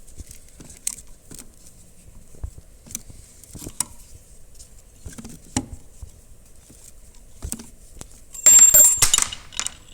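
Hand tools working a valve spring compressor on a cylinder head: scattered light metal clicks and knocks. About eight and a half seconds in comes a loud, brief metallic clatter with ringing, as the compressed valve spring and its retainer parts come loose.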